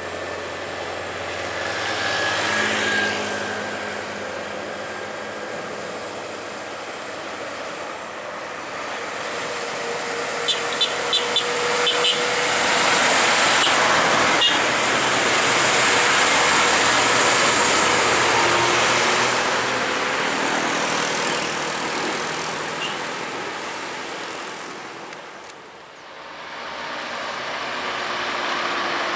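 Heavy trucks and other traffic passing on a highway climb, the noise swelling as vehicles come by and fading as they go, loudest in the middle and dipping briefly near the end. A quick run of about five short, sharp sounds comes about ten to twelve seconds in.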